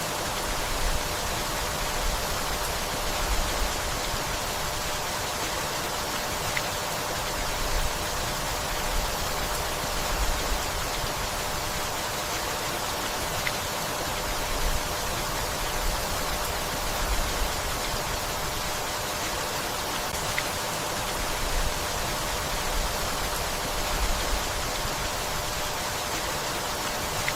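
Steady rainfall, an even hiss of rain on leaves and surfaces with a faint low rumble underneath.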